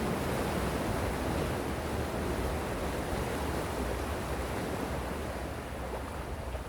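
Gentle sea waves washing on the shore, a steady rushing wash that eases off slightly near the end, with a low rumble of wind on the microphone.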